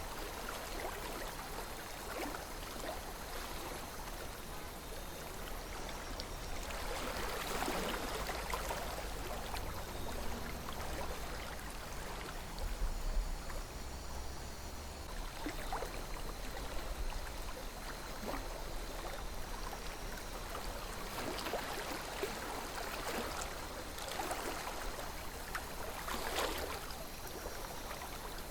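A calm river flowing steadily, its water running and trickling, with a few brief louder swells of splashing.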